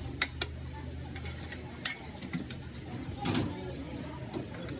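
Workshop sounds: a few scattered sharp metallic clicks and knocks over a low steady hum that fades about halfway through.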